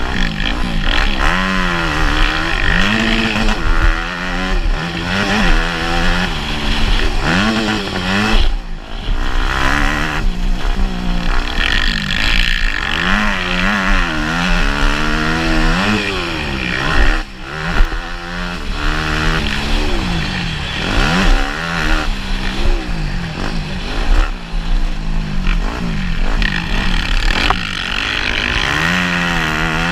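Motocross bike engine ridden hard, revving up and down over and over, its pitch climbing and falling every second or two, over a steady low wind rumble. The engine note drops away briefly twice, about a third of the way in and just past halfway.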